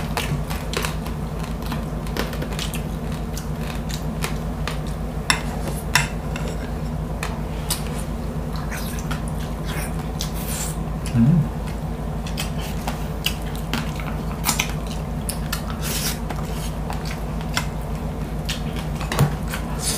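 Close-miked eating of crispy roast suckling pig (lechon): chewing and crunching of the skin and meat, with irregular sharp crackles and mouth clicks over a steady low hum.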